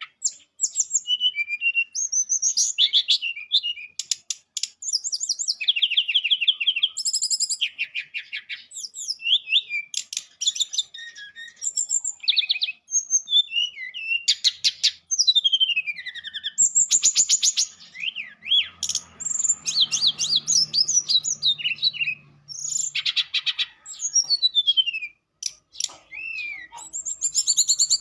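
Brown-chested jungle flycatcher (sikatan rimba dada coklat) singing without a break: a fast, varied string of high trills, chirps and quick whistled glides. It is the kind of song played to stir quiet caged birds into singing and to tutor them.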